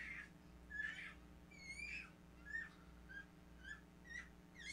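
A small bird chirping: short, high calls about twice a second, some gliding up or down in pitch, over a steady low hum.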